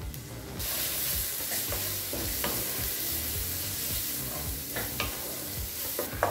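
Onion-tomato masala with freshly added chilli, turmeric and coriander powders sizzling in oil in an iron kadai, while a spatula stirs and scrapes it with a few sharp clicks against the pan. The sizzle sets in about half a second in, as the spice powders are sautéed.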